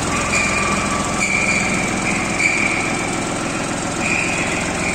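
Jinma 244 tractor's diesel engine running steadily, with a high whine that comes and goes several times over it.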